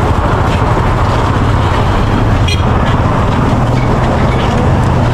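Heavy road traffic of cars and trucks: a loud, steady rumble, with a brief high-pitched tone about halfway through.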